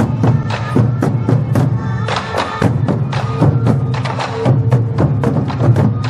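Traditional Taiwanese temple-procession percussion: drums beating with rapid sharp strikes over a steady low throb, and a few held tones above.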